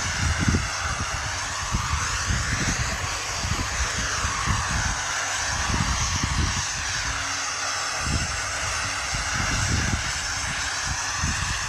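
Aircraft engine noise, a steady rushing sound whose tone slowly sweeps up and down, with irregular gusty low rumbling underneath.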